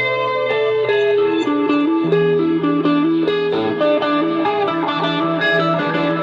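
Instrumental music: a plucked-string melody, guitar-like, of quick separate notes over a held low note that steps up about two seconds in.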